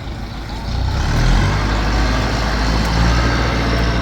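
A large engine running steadily, growing louder about a second in and staying there.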